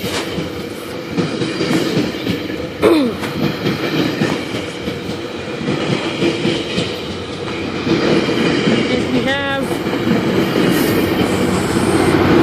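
Express GO Transit train passing at speed without stopping: bilevel coaches running by with a steady rumble and wheels clacking over the rail joints, with a sharp knock about three seconds in. The sound grows louder over the last few seconds as the MP40 diesel locomotive draws near.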